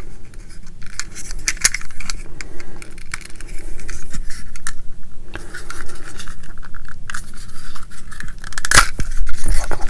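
Small plastic model-kit parts being handled and pressed into place on a workbench: a run of irregular light clicks and scrapes, with one sharper click near the end.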